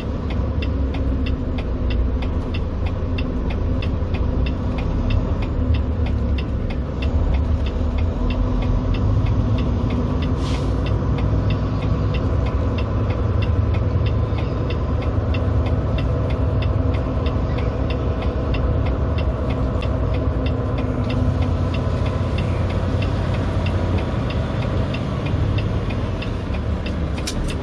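Semi truck's diesel engine running steadily at low revs, heard from inside the cab, with a fast, even ticking over the low rumble.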